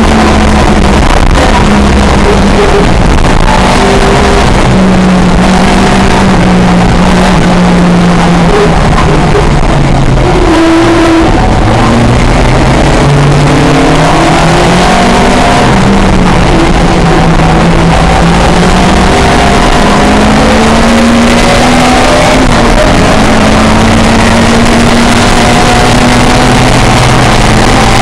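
A pre-1966 touring car engine at racing speed, very loud, its pitch climbing and dropping over and over as it accelerates, lifts and changes gear, with a short lull about ten seconds in.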